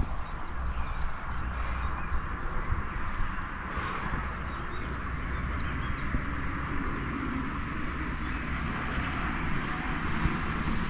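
Steady outdoor background noise, with a brief high-pitched chirp or squeak about four seconds in.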